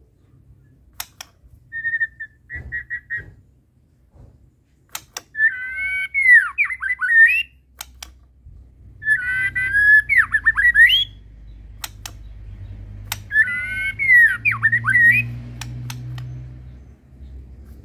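White-rumped shama (murai batu, Medan type) singing: a short trill, then three whistled phrases a few seconds apart, each a pair of clear held notes breaking into quick falling sweeps. Sharp clicks sound now and then between the phrases.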